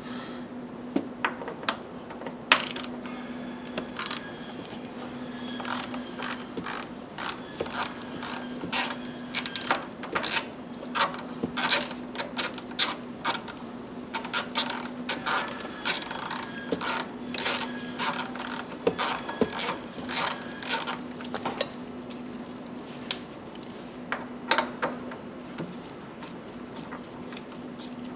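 Irregular clicks and rattles of hand tools and parts at work on a car's seat belt assembly, thickest through the middle, over a steady low hum.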